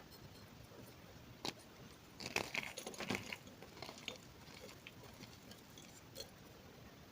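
A crunchy snack being bitten and chewed: a sharp crack about one and a half seconds in, a quick run of crisp crunches a little after two seconds, then a few fainter crunches and a last crack near the end.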